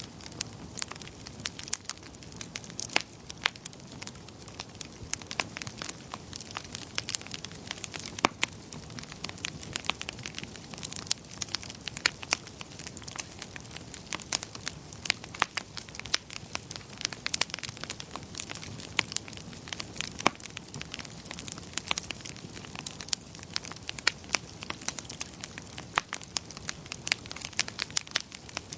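Wood fire crackling in a fireplace: many irregular sharp snaps and pops over a soft low rumble.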